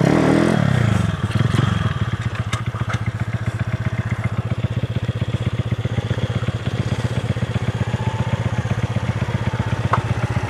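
Two small motorcycle engines, a Daelim Roadwin 125 and a Benzer Yankee 140 pit bike, revving, their pitch sweeping up and down through the first second or so, then settling to a steady idle with an even putter.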